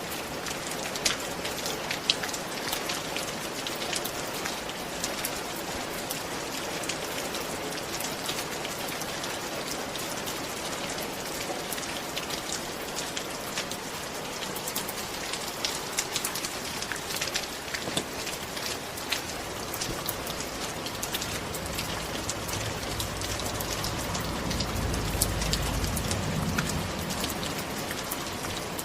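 Steady rain, with single drops ticking close to the microphone. A low rumble swells up about two-thirds of the way through and fades again near the end.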